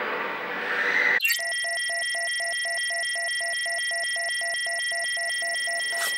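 A rushing noise that stops abruptly about a second in, then a synthesized electronic sound effect: steady high pure tones with a beeping pulse about four times a second.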